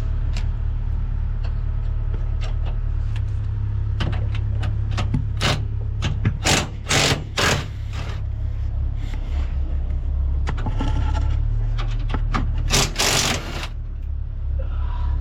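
Machinery running with a steady low hum, with scattered clicks and knocks and a few short bursts of hissing noise near the middle and again near the end.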